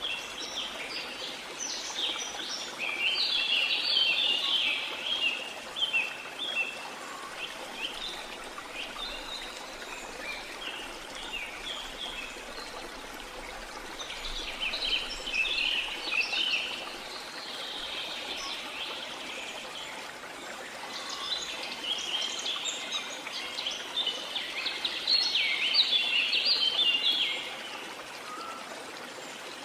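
Steady rush of a waterfall, with birds chirping over it in three bouts of quick, dense notes: one in the first few seconds, one around the middle, and the loudest near the end.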